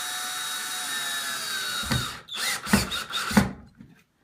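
Power drill driving a screw into a plywood backer behind drywall. The motor runs steadily for about two seconds and then stops, followed by three short, loud bursts about two thirds of a second apart.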